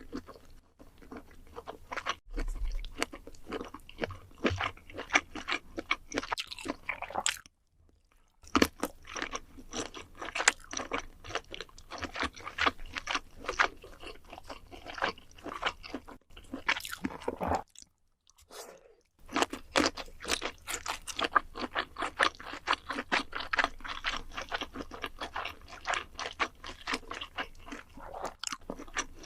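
Close-up chewing and biting of food, with dense, irregular crunching and wet mouth clicks, stopping briefly twice.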